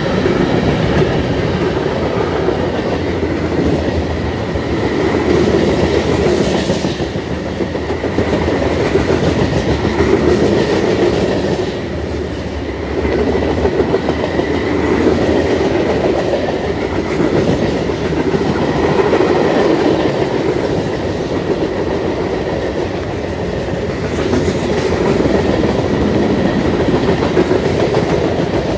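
Freight train cars rolling past at speed, steel wheels clicking over the rail joints with a steady rumble that swells and eases every few seconds. A faint steady high tone rides above it.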